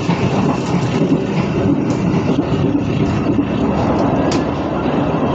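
Sawunggalih passenger train running, a steady rumble of the moving carriage heard from inside, with two short sharp clicks.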